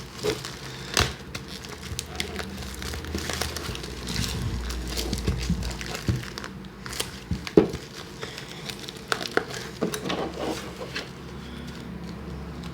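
Plastic packaging crinkling and rustling as it is handled, with scattered clicks and taps.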